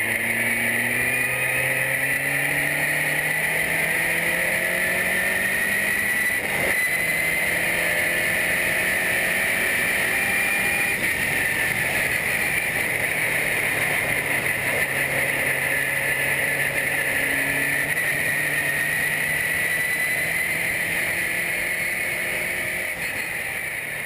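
Single-seater formula race car engine running hard at speed, its pitch climbing under acceleration. There is a short break about six seconds in, like a gear change, and the sound fades away near the end.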